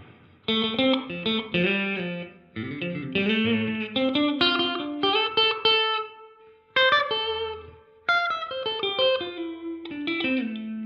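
Electric guitar played through a Donner Yellow Fall II delay and reverb pedal set to plate reverb: several short phrases of picked notes and chords, each ringing out into a reverb tail before the next begins.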